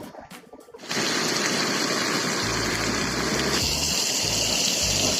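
A loud, steady rushing noise starts suddenly about a second in, with irregular low rumbling thumps under it from about two and a half seconds.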